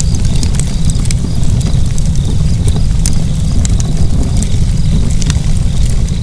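Fire burning in a fireplace, with frequent sharp crackles and pops over a loud, steady low rumble.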